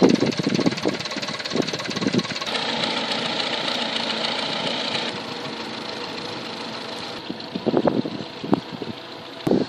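Vintage stationary engines running, the sound changing abruptly a few times from one engine to another.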